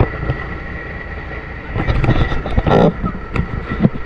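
Truck engine idling steadily with a low rumble and a faint whine. About two seconds in, a cluster of knocks and scraping rises over it, followed by a couple of sharp clicks.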